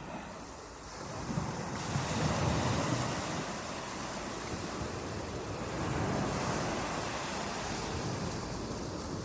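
Rushing water, a steady noisy wash that swells about a second in and then holds.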